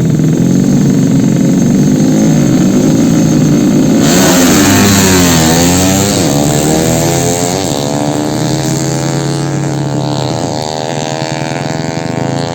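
Yamaha Jupiter motorcycles' small four-stroke engines revving hard. About four seconds in the sound changes abruptly, the pitch dipping and then climbing again, followed by repeated rising sweeps as they accelerate through the gears.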